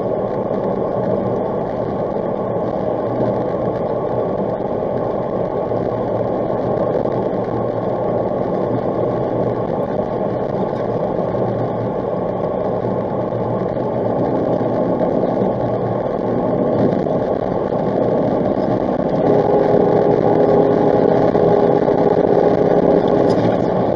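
Car engine and road noise heard from inside a moving car, a steady rumble that grows a little louder in the last third. A faint steady whine comes in for a few seconds near the end.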